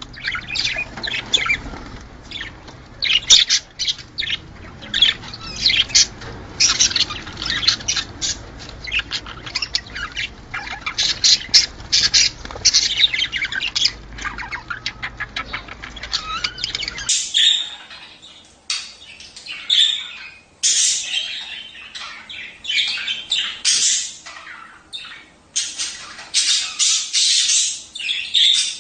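A flock of budgerigars chattering, with rapid chirps and harsh squawks overlapping without pause. A low hum underneath cuts out suddenly a little over halfway through, where a cleaner recording of the same chatter takes over.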